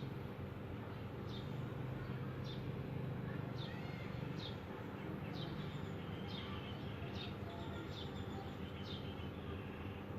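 A small bird chirping over and over in short falling chirps, roughly one a second, over a steady low hum.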